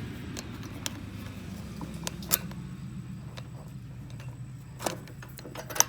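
A few sharp clicks and knocks from handling the snowblower's wheel and axle parts, the loudest about two seconds in, over a steady low hum.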